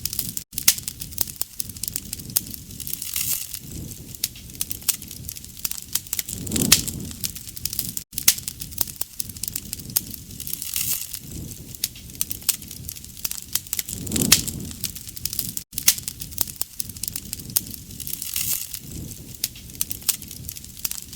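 Wood fire crackling and popping steadily, with a soft rush of flame that swells about every seven and a half seconds.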